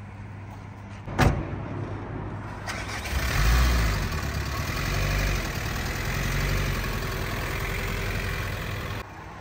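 A sharp knock about a second in, then a motor vehicle's engine starts and runs steadily for about six seconds before cutting off suddenly near the end.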